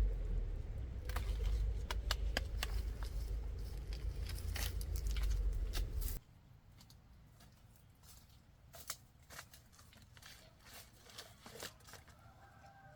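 Rustling and scattered sharp clicks over a low rumble, which cut off abruptly about six seconds in; after that only faint ticks and crackles.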